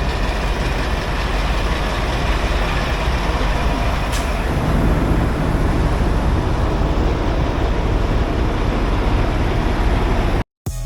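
Semi truck on the road: steady engine and road rumble, with a brief high hiss about four seconds in, cutting off abruptly near the end.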